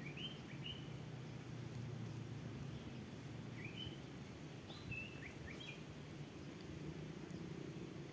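Small birds chirping in short, quick upward-hooked calls, two near the start and a cluster of about six in the middle, over a steady low rumble.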